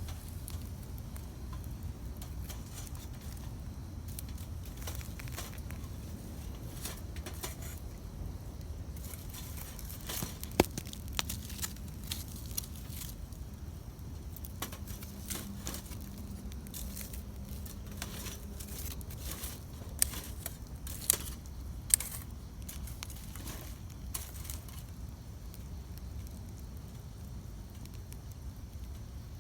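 Wood campfire burning: a steady low rumble with scattered crackles and pops, and a few sharp, loud snaps around ten seconds in and again near twenty seconds.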